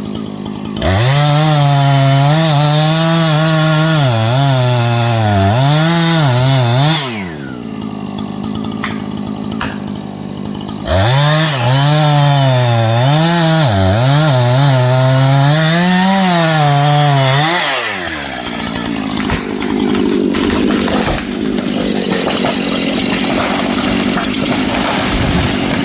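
Two-stroke chainsaw cutting into a log in two long runs of about six seconds each, its engine pitch wavering under load as the chain bites. The pitch drops away after each cut, and the saw runs on at a lower pitch in between and afterwards.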